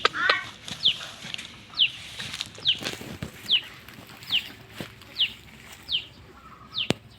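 A young animal giving short, high-pitched peeps, one falling call a little under every second, with a sharp click near the end.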